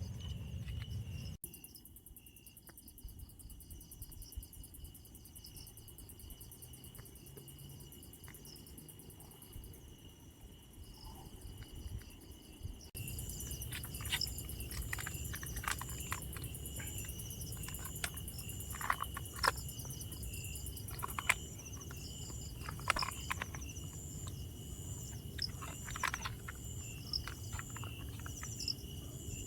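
Insects, crickets among them, calling in a steady chorus: one shrill unbroken tone with rapid pulsing trills above it. The chorus changes abruptly about a second in and again near the middle, and scattered short clicks and knocks come through in the second half.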